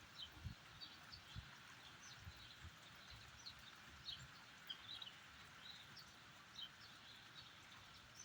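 Faint outdoor ambience: small birds chirping now and then in short high notes over a light, steady hiss, with a few soft low thuds in the first second or so.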